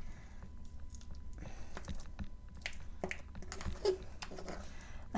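A person chewing a taste of moist chalk-and-clay paste, with irregular small mouth clicks.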